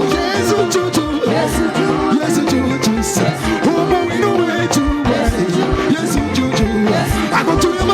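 Upbeat African praise-and-worship band music with a steady drum beat, bass and guitar, and singing.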